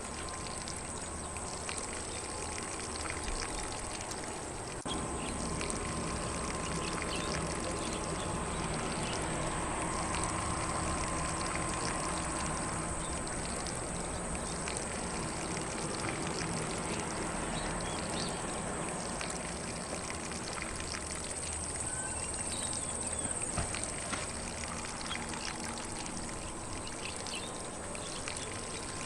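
Lawn sprinkler spraying water over grass: a steady, even hiss and patter of falling water, a little louder from about five seconds in.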